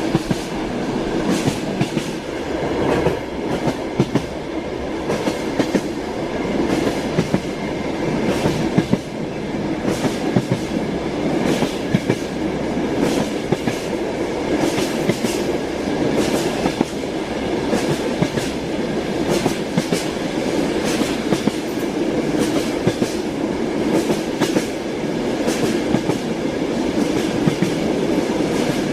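Moving train heard from inside a railway carriage: a steady rumble of wheels on rails, with repeated sharp clacks as the wheels pass over rail joints.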